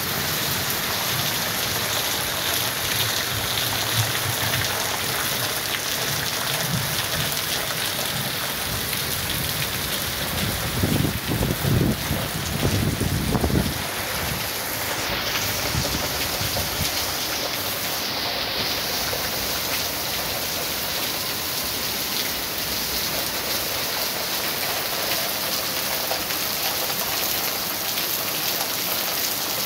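Heavy rain pouring steadily in a thunderstorm, a dense, even hiss of downpour. A low rumble of thunder swells about eleven seconds in and fades by about fourteen seconds.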